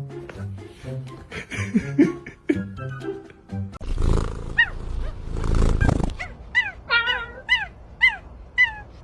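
A dog gives two harsh, noisy sounds about four and five and a half seconds in, then a run of about eight short high yips, each falling in pitch, over background music.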